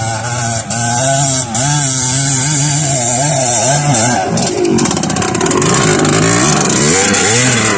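Trail motorcycle engine revving up and down in quick throttle pulses, its pitch rising and falling about twice a second. A spell of rapid clicking or rattling comes roughly halfway through.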